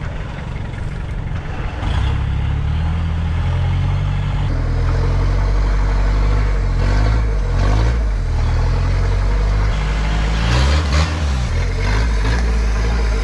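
Off-road competition 4x4 truck's engine working hard under load as it drives out of a rock wedge. It picks up in revs about two seconds in, and its pitch rises and falls several times with the throttle.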